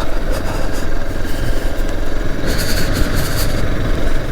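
Motorcycle engine running at a steady pace as the bike rides over a badly broken road, with a low rumble and a short burst of hiss about halfway through.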